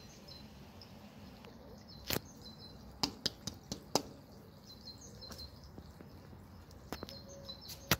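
Small birds chirping faintly in short repeated calls, with a scatter of sharp clicks or taps, several in a quick cluster a few seconds in and more near the end.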